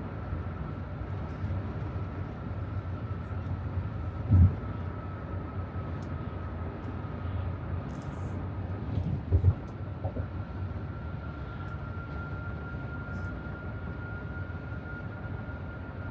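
Road noise inside a moving car: a steady low rumble of tyres and engine with a faint steady whine. Two dull thumps come about four and nine seconds in.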